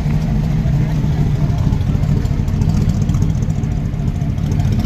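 Vehicle engine running steadily, a loud low rumble with no change in pitch.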